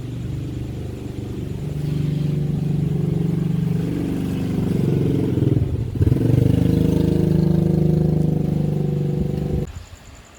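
Yamaha Sirius motorcycle's small single-cylinder four-stroke engine running, picking up revs about two seconds in. It stops abruptly near the end.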